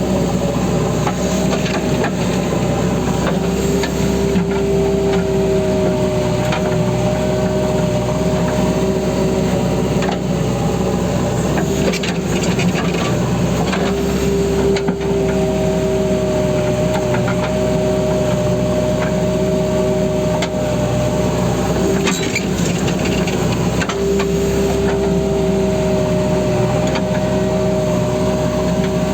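JCB backhoe loader's diesel engine running steadily, with a whine that comes and goes three times for several seconds each, over scattered knocks.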